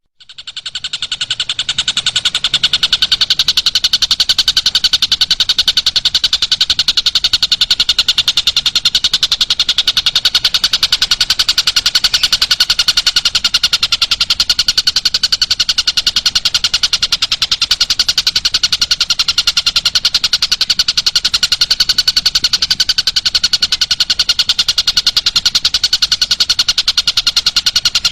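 A recorded masteran track of a high-pitched animal call, played for white-rumped shamas to copy: one unbroken, very fast trill that fades in at the start and then runs steadily.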